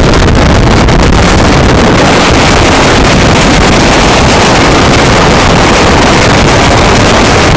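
Loud, steady rush of wind on the microphone, mixed with the running noise of a moving train.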